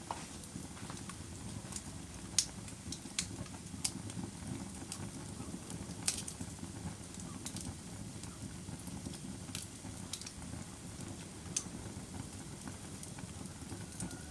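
Wood fire burning in a fireplace: a steady low rumble with sharp, irregular crackles and pops, the strongest about two and a half seconds and six seconds in.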